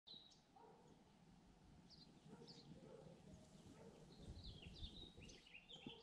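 Near silence outdoors, with a few faint, short bird chirps, more frequent in the second half, over a faint low rumble.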